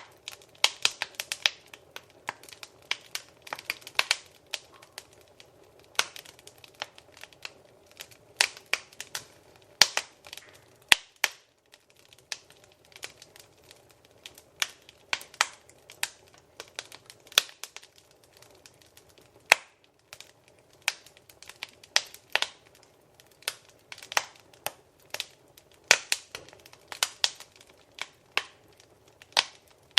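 Wood fire in a fireplace, crackling: irregular sharp pops and snaps, several a second, some louder than others, over a faint steady hiss.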